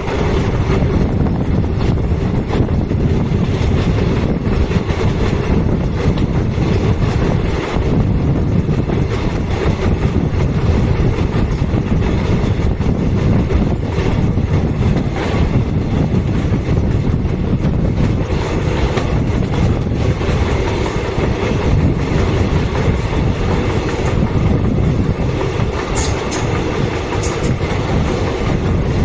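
Passenger train cars rolling along the track, wheels clattering over the rail joints in a steady, loud run, with a couple of brief high squeals near the end.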